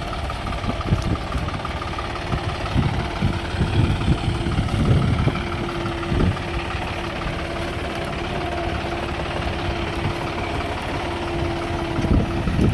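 John Deere 5310 tractor's three-cylinder diesel engine running at a steady speed, with a steady humming tone that joins about four seconds in.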